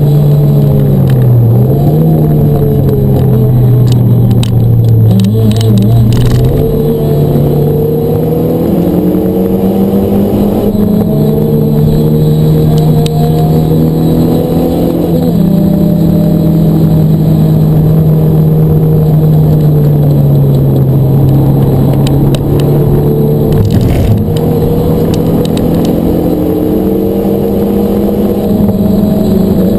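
Renault Mégane RS 250's 2.0-litre turbocharged four-cylinder engine heard from inside the cabin while lapping a track, the engine note climbing under acceleration and dropping back several times through gear changes and corners, over tyre and road noise. A brief knock about 24 seconds in.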